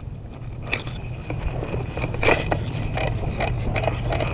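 Irregular scraping and crackling clicks, a sharp one under a second in and a cluster around the middle, over a steady low rumble.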